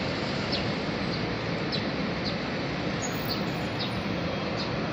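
Steady rushing noise of an EMU500 electric commuter train moving off and running past close by. Small birds chirp a short call about every half second over it.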